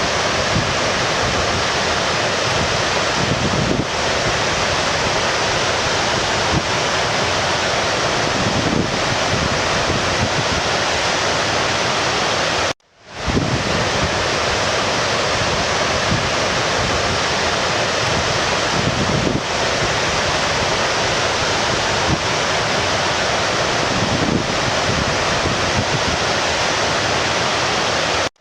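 A stream's water rushing steadily. About 13 seconds in it cuts out abruptly and fades back in within half a second, like a loop point in the recording.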